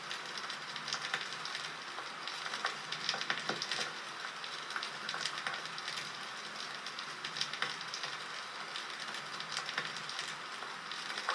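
Wood fire crackling: a steady hiss dotted with irregular sharp pops and snaps.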